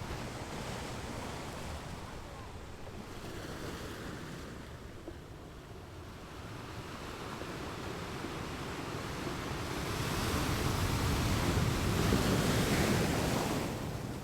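Ocean waves washing on a shore, a steady rushing that swells louder about ten seconds in and falls away near the end as a wave surges in and recedes.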